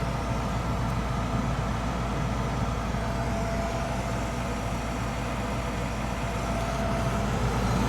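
Old gas furnace running: a steady mechanical hum of its fans with a faint constant whine, no change in speed.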